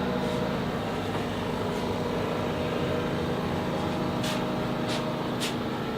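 Twin-turbo LM7 V8 engine of a 1992 Nissan 300ZX idling steadily, not revving, with a few short hisses about four to five seconds in.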